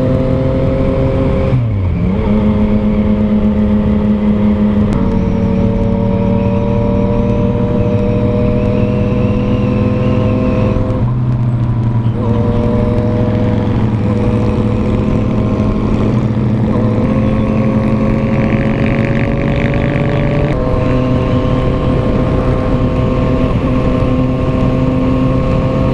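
Yamaha FZ-09 (MT-09) 847 cc inline-three engine running through an aftermarket exhaust while riding. The engine note climbs slowly, then dips or breaks with gear changes or throttle lifts about two seconds in, around five, eleven and seventeen seconds, and again near twenty seconds.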